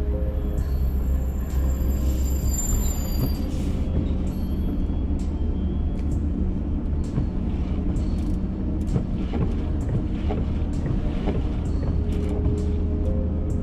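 Steady low rumble of a vehicle on the move, with scattered clicks and rattles.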